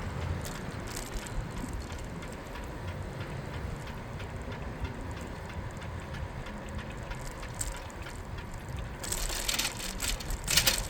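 Riding a bicycle, heard from the bike itself: steady tyre and road rumble with light rattling and ticking. About nine seconds in, a louder hissing, clattering burst rises and peaks just before the end.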